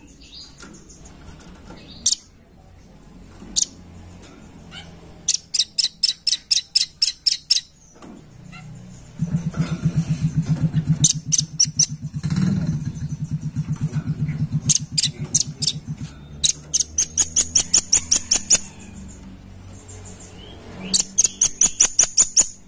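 Velvet-fronted nuthatch calling: bursts of rapid, sharp, high 'chit' notes at about eight to ten a second, each burst lasting one to two seconds and repeated several times. A low rhythmic pulsing runs underneath through the middle part.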